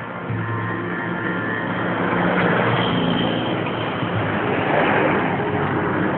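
Road traffic noise: a motor vehicle's engine and tyres rushing, growing louder about two seconds in as it passes close by.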